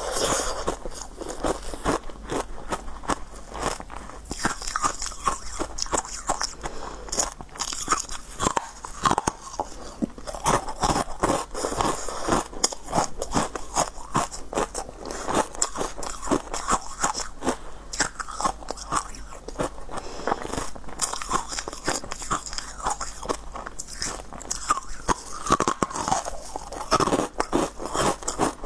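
A person biting and chewing hard, ice-like molded pieces, a close-miked run of crisp crunches and crackles, many a second, that never stops for long.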